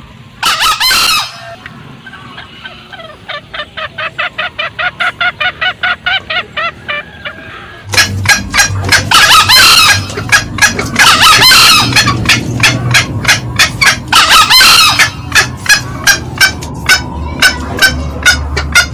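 Green junglefowl calling, male and female: a short crow near the start, then a fast run of repeated cackling notes that grows louder, and from about halfway a loud, dense cackling with longer call phrases mixed in.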